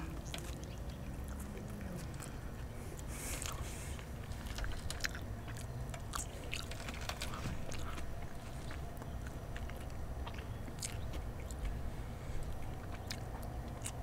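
A person chewing a mouthful of soft beef taco with crisp iceberg lettuce, close to the microphone, with small crunches and wet mouth sounds scattered through. Later there are faint crackles as fingers pick through shredded lettuce on a wooden board.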